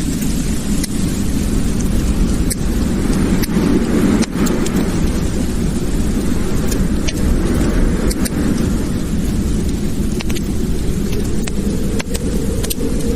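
Wood fire in a fireplace burning with a steady low roar and frequent, irregular sharp crackles and pops.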